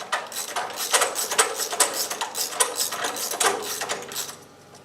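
Ratchet socket wrench clicking in quick back-and-forth strokes as a new spark plug is snugged down into the engine, dying away about four seconds in.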